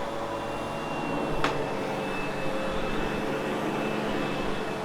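Sebo X8 upright vacuum cleaner running steadily on carpet, a steady motor drone with a thin high whine over it. A short falling chirp about a second and a half in.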